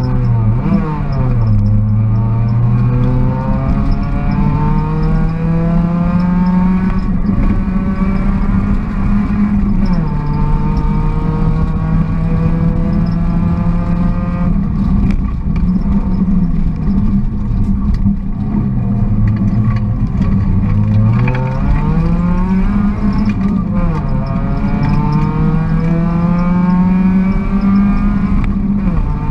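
Volkswagen Golf GTI rally car's engine heard from inside the cabin under hard acceleration, its pitch climbing through the revs and dropping at upshifts about ten seconds in and again near the end. About two-thirds through it falls back as the car slows, then climbs again, over steady tyre and road noise.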